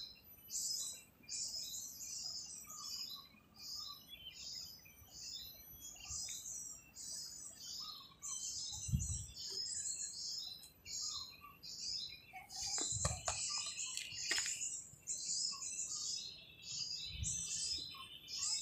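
Small birds chirping, rapid short high calls several a second with little pause, with a few low thumps and sharp clicks in the middle.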